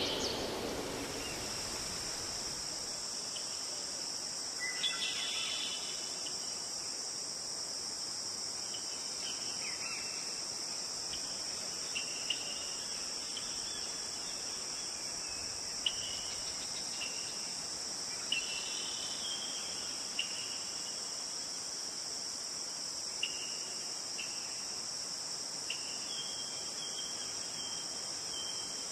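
A steady, high-pitched chorus of insects such as crickets, with short bird chirps breaking in every few seconds.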